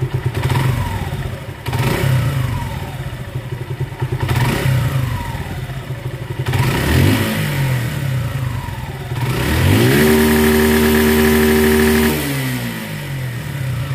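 Suzuki Gixxer SF's single-cylinder engine, freshly rebuilt and just started, revved by the throttle in several short blips, then held at higher revs for about two seconds before dropping back to idle. The tappet clearance has not yet been set.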